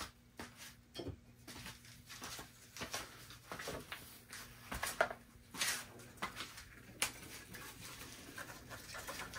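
Scattered light clicks and knocks of equipment being handled, over a faint low hum that dies away about seven seconds in.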